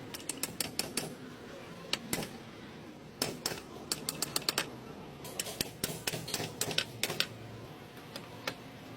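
Irregular clusters of short, sharp metallic clicks and taps from metal tools and parts being handled during a driveshaft universal joint replacement.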